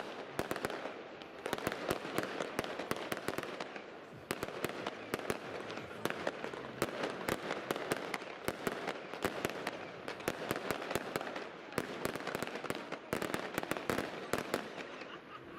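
New Year's Eve fireworks going off all around: a dense, irregular crackle of bangs and pops from many rockets and firecrackers, over a continuous rumble of distant explosions.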